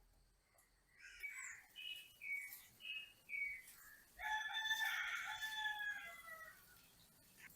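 Rooster crowing: a few short calls, then one long crow starting about four seconds in and lasting over two seconds.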